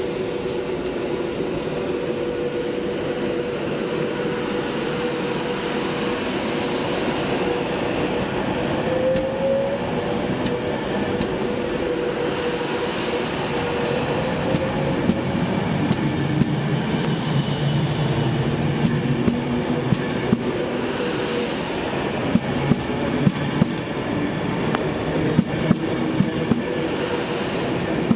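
Virgin Trains Class 390 Pendolino electric train running past close by: a steady whine over the rumble of wheels on rail. From about halfway on, quick clusters of sharp clicks as the wheels cross a rail joint.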